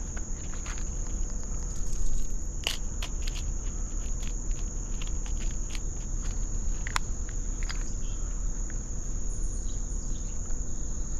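Steady, high-pitched insect drone, with scattered sharp clicks and knocks and a low steady rumble underneath.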